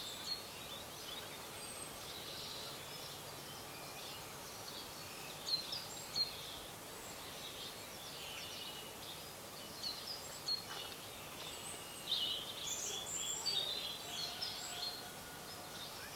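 Several small birds singing and chirping over steady background noise, with short high chirps and trills coming more densely near the end.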